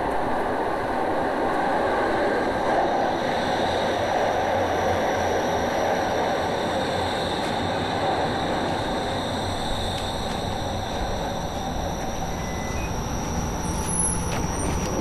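Train running steadily on rails: an even rumble with a faint high whine over it.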